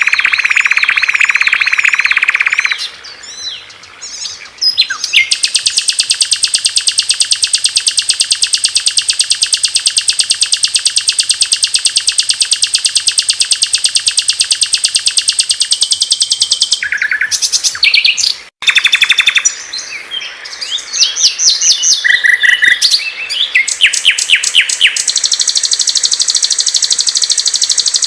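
Small songbirds singing in a sequence of spliced recordings. Long, rapid high-pitched trills alternate with a stretch of varied short chirps, and the song changes abruptly at each join.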